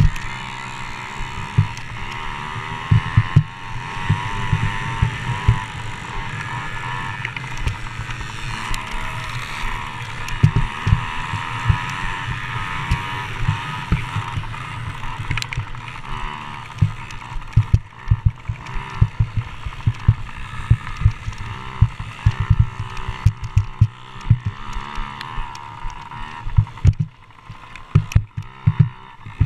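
Several motocross dirt bike engines racing, their pitch wavering up and down as the riders work the throttle, with frequent low wind thumps on the microphone.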